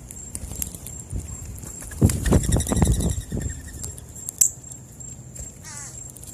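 Birds at a birdseed feeding spot: a loud flurry of fluttering about two seconds in, then a short wavering bird trill near the end.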